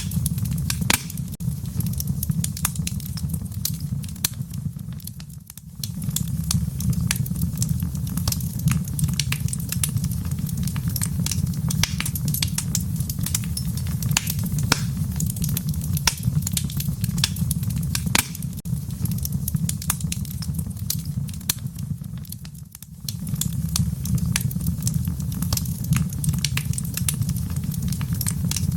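Fire crackling in a fireplace: a steady low rumble with many sharp pops and snaps scattered through it. The rumble dips briefly twice, about five seconds in and again a little before the end.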